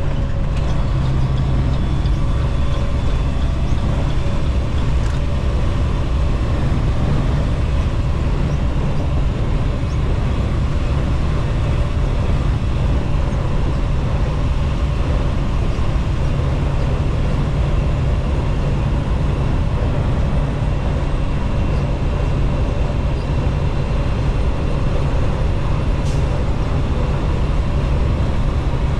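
Steady drone of a semi truck's engine and road noise heard from inside the cab while driving, a constant low rumble with a faint steady hum above it.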